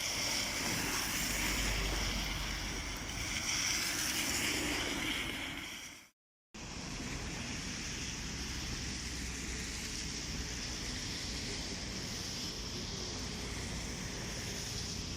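Steady rush of road traffic and wind noise, with no distinct tones or knocks. It drops out completely for a moment about six seconds in, then comes back steady.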